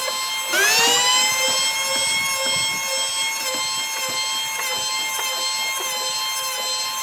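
Electric power tool motor running with a high, steady whine; about half a second in, a motor spins up with a sharply rising whine that levels off, and the sound is loudest as it does so.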